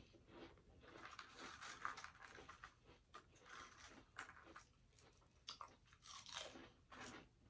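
Quiet, close-miked chewing with soft crunches of food in the mouth. A crisper crunch comes about six seconds in, as a potato chip is bitten.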